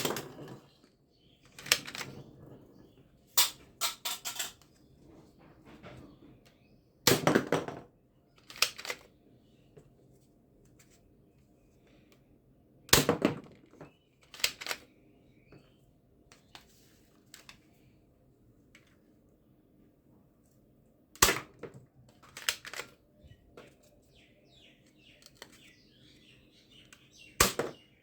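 Toy guns clicking and clacking: about a dozen sharp, short clicks at irregular intervals, with quiet gaps of several seconds between some of them.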